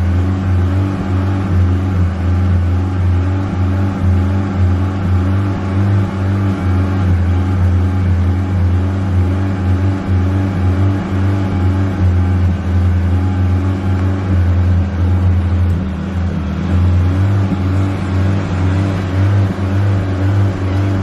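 Honda Civic engine running at a fairly steady speed: a low, even drone with a slightly wavering level and a brief dip about sixteen seconds in.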